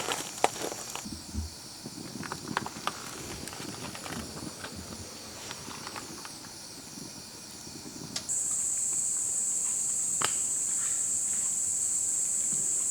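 Scattered light clicks and rustling. About eight seconds in, a steady high-pitched hiss sets in suddenly, becomes the loudest sound, and holds.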